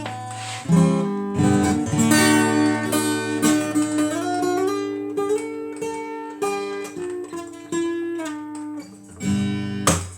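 Acoustic guitar playing an instrumental passage between sung lines of a song, plucked and strummed notes ringing over a steady bass.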